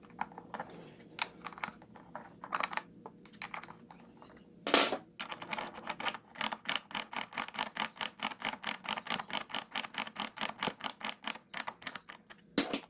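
Ratchet wrench clicking steadily, about five clicks a second, tightening the bolt that holds the loose chair leg, after a single loud knock about halfway through.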